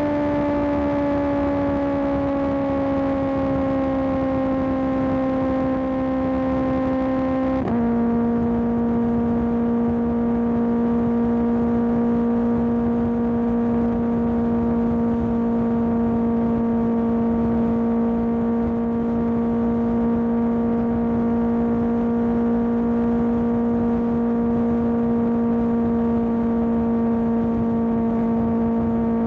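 Kawasaki ZX10R inline-four engine through an M4 exhaust, running at a steady cruise under way. Its pitch sags slightly, steps down suddenly about eight seconds in, then holds steady.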